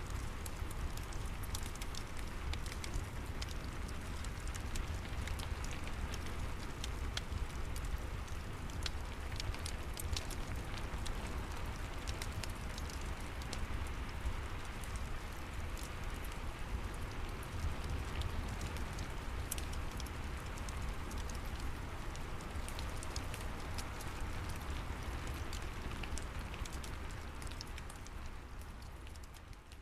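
Steady rain mixed with fireplace crackling: an even wash of rain with sharp pops and snaps scattered through it and a low rumble underneath. Everything begins to fade out near the end.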